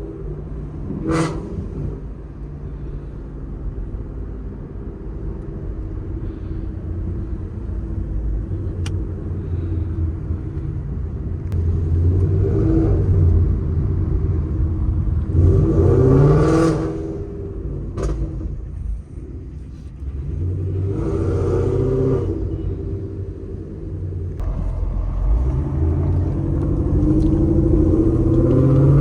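Ford Mustang GT 5.0 V8 running through catless long-tube headers and a Corsa Xtreme cat-back exhaust while driving, its low exhaust note rising and falling through several accelerations and gear changes. The loudest pull comes about halfway through.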